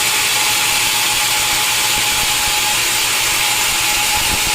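Sawmill saw running steadily through a log: an even, high-pitched sawing noise with a faint steady whine underneath.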